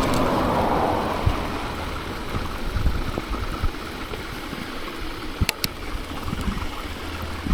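Bicycle tyres rolling over snow with wind noise on the microphone, a steady rushing hiss. A louder rush fades away over the first second or so, and two sharp clicks come about five and a half seconds in.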